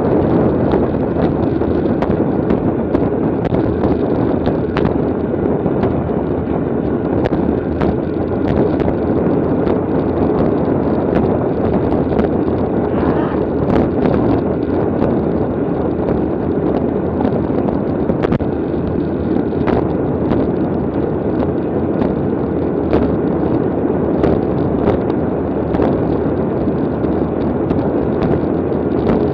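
Steady, loud wind rush on the microphone of a camera riding along in a bicycle race, with frequent short clicks and knocks through it.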